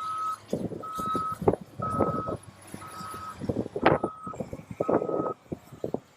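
Reversing alarm on a piece of snow-removal heavy equipment, a steady single-pitch beep about once a second, stopping near the end, under irregular crackling and buffeting noise on the microphone.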